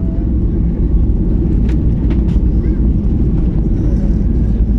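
Steady, loud low rumble of an airliner heard from inside the cabin during landing, with a few short clicks or knocks about two seconds in.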